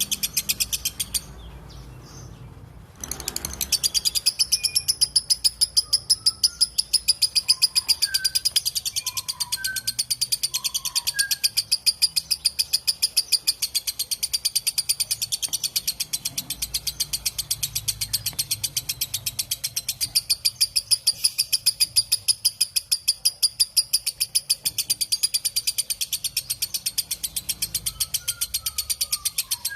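Lovebird 'ngekek': a long, rapid chattering trill of harsh, evenly repeated notes. It breaks off briefly near the start, then runs on without a pause. A few faint short chirps sound under it.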